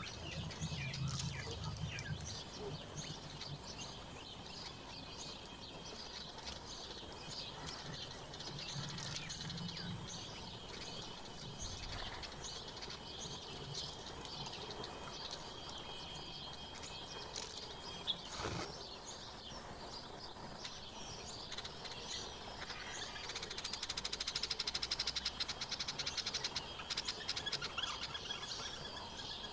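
Wild songbirds chirping and calling outdoors, many short high chirps overlapping throughout, with a single sharp click about two-thirds of the way through.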